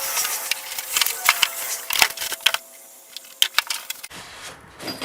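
Scattered sharp clicks and taps of pressure-washer parts being handled and fitted together during assembly.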